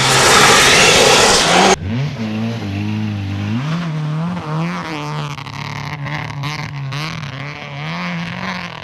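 A rally car passes very close with a loud rush of engine and tyre noise that cuts off abruptly about two seconds in. It is followed by a rally car engine revving up and down over and over as it drives through the stage.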